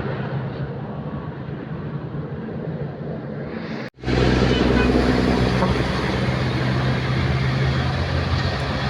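Old truck's engine running with a steady low drone. It cuts off abruptly about four seconds in and resumes louder and fuller.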